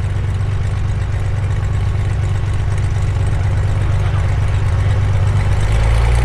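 Cessna 210K's six-cylinder piston engine and propeller running at low power, a steady drone of low tones. Near the end the tones shift and grow louder as the engine note changes.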